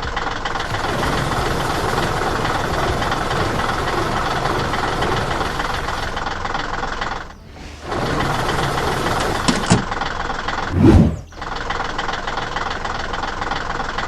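Engine sound effect of a cartoon construction machine running steadily, dropping out briefly twice, with a loud low thump about eleven seconds in.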